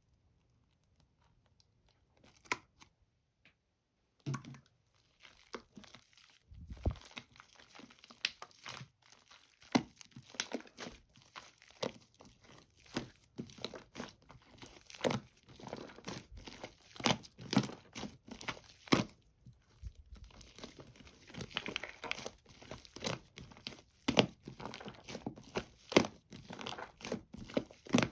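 Foam slime being squeezed, pressed and stretched by hand, giving dense, irregular crackling and popping with tearing, crinkly sounds. After a near-silent start with a few scattered crackles, it becomes continuous about four seconds in.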